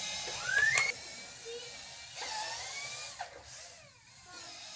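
Small electric motor of a homemade RC truck drive whining, its pitch rising as it speeds up, then rising and falling again before fading toward the end.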